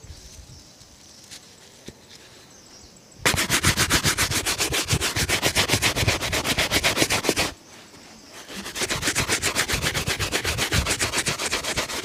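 Shoe being brushed or buffed with rapid back-and-forth strokes, several a second. Two long spells: the first starts about three seconds in and stops briefly near the middle, and the second picks up about a second later.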